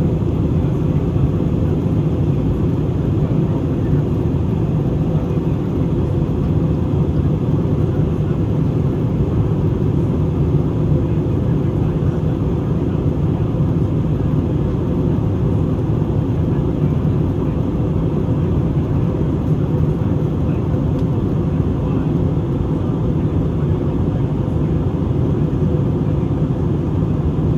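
Steady cabin noise of an Airbus A321neo in flight: an even low rumble of airflow and its CFM LEAP-1A engines, with no change in pitch or level.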